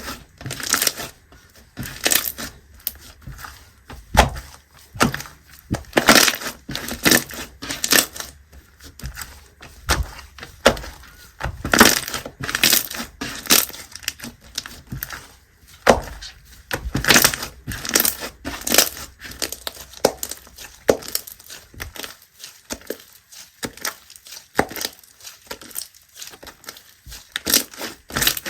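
Clear slime being squished and stretched by hand, giving irregular sharp pops and crackles.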